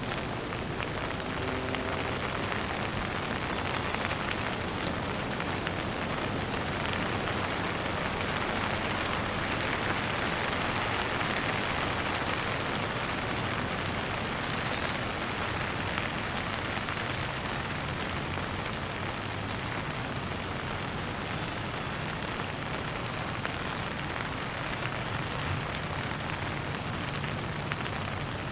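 Steady gentle rain falling, with a dense patter of individual drops. About halfway through, a bird gives one brief high chirp.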